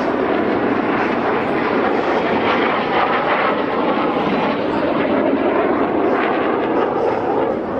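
Loud, steady engine noise from a jet aircraft in display flight.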